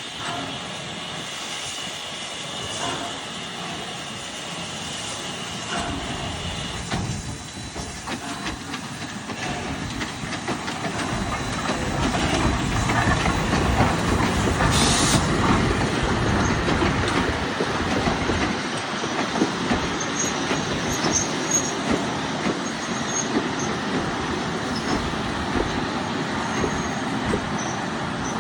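Heritage steam train running past on the rails, getting louder toward the middle, with short high-pitched wheel squeals in the second half.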